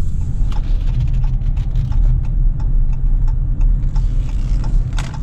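Low, steady rumble of a 2017 Dodge Challenger SXT on the move with its 3.6-litre V6, heard from inside the cabin. A few faint light clicks come through it.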